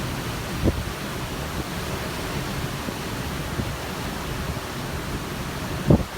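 Steady rushing wash of the sea and wind heard from a moving cruise ship. Two short low thumps of wind buffeting the microphone, one about a second in and one near the end.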